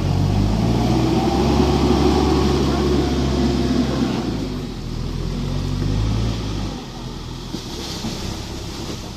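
Heavy machinery engine running steadily and loudly, then easing off about seven seconds in.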